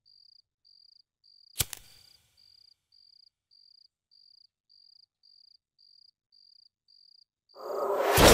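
Faint crickets chirping in an even pulse, about every half second, under one sharp click about a second and a half in as a lighter is struck. Near the end a swell rises quickly into a loud hit.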